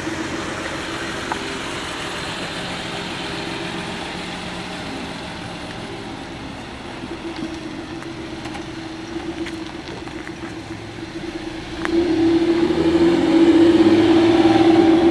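A motor or engine running steadily with a constant hum, which gets louder about three-quarters of the way through.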